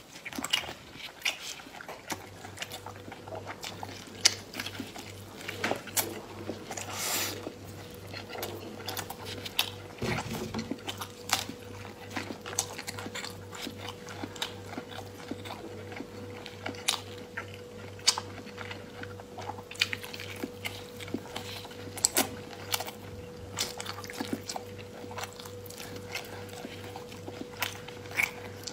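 Close-miked eating sounds: biting into and chewing sticky braised pork belly, with irregular wet smacks and crackles. A faint steady hum lies underneath.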